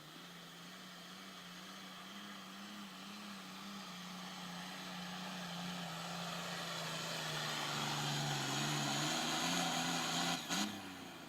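Turbo diesel pulling tractor running hard under load, its engine growing steadily louder, with the note sagging lower about eight seconds in. A brief sharp crack comes about ten and a half seconds in, after which the sound drops away.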